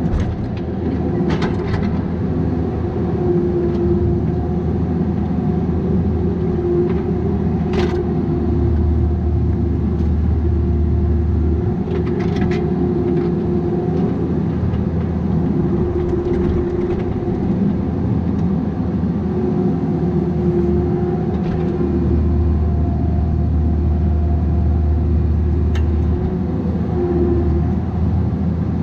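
Bobcat 337G mini excavator's diesel engine running under load, with a hydraulic whine that comes and goes every few seconds as the machine works. A few sharp knocks sound through it, about a second in, near 8 and 12 seconds, and near the end.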